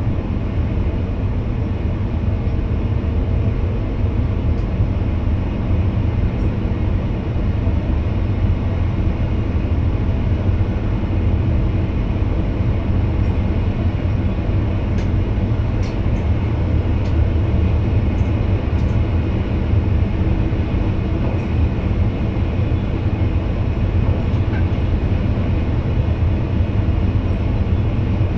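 NS VIRM double-deck electric train running at steady speed, heard inside the driver's cab: an even low rumble of wheels on the rails with faint steady tones above it.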